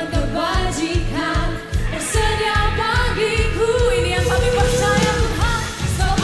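A contemporary Christian worship song: a voice sings a melodic line over a pop band with a steady bass-and-drum beat.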